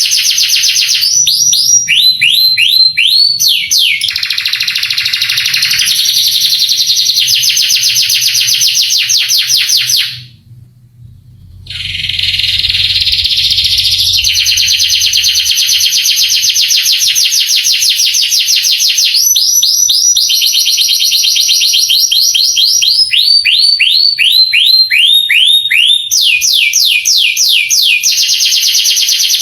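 Male canary singing a long song of fast, dense trills alternating with runs of repeated downward-sweeping whistled notes, with a short pause about ten seconds in.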